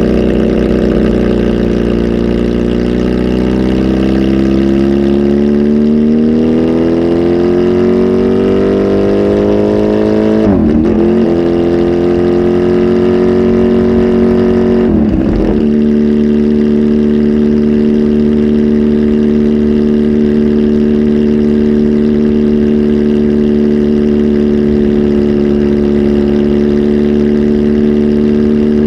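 Kawasaki Z H2 SE's supercharged inline-four running through a full aftermarket exhaust, on a flash tune. The engine note dips briefly, then climbs slowly for several seconds. It breaks up briefly twice, about ten and fifteen seconds in, then holds a steady pitch.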